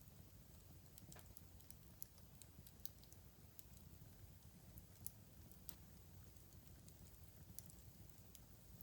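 Wood fire crackling in a fireplace: faint, irregular little pops and snaps over a low steady rumble.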